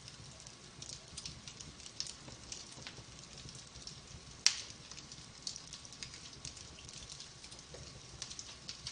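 Wood fire burning in a fireplace, crackling steadily with many small scattered pops and one loud sharp pop about halfway through.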